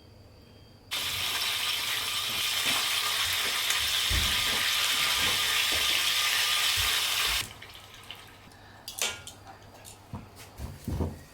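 Water pouring in a steady stream for about six seconds, starting and stopping abruptly, followed by a few light knocks and clicks of cookware being handled.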